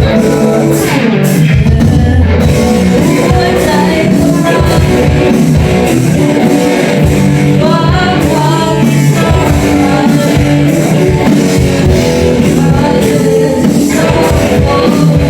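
Rock band playing with drums, electric guitars and keyboard, and a child singing the lead vocal.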